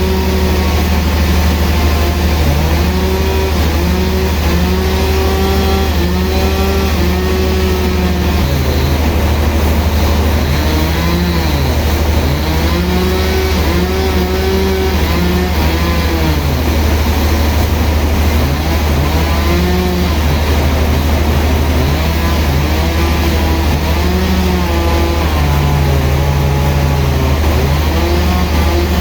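Sawmill machinery running without a break: a steady low hum under an engine note that keeps rising and falling as the load changes.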